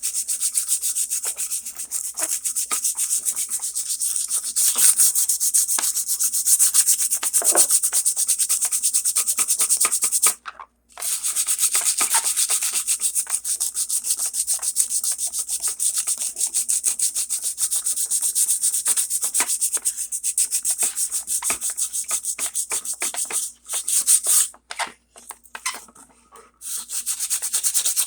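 Loose sandpaper rubbed by hand in rapid back-and-forth strokes over glazing-putty filler on a model roof edge, with a brief pause about ten seconds in and a few short breaks near the end.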